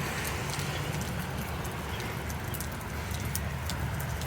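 Heavy rain falling, with many scattered sharp ticks of drops striking close by over a steady low rumble.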